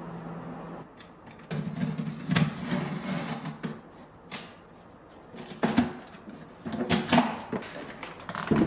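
A steady low hum that cuts off about a second in, then a run of irregular knocks, clatters and clicks, like objects being handled and set down.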